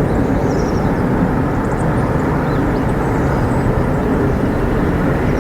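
Steady low outdoor rumble, with faint high bird chirps scattered through it.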